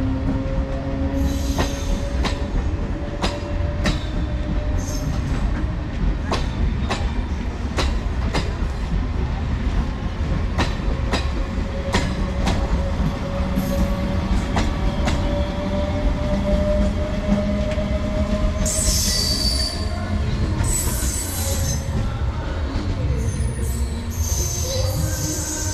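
MEMU electric train rolling past as it departs, with a steady low rumble and wheels clicking over rail joints about twice a second, under a faint whine that slowly rises in pitch. In the last third, high wheel squeals come in three bursts.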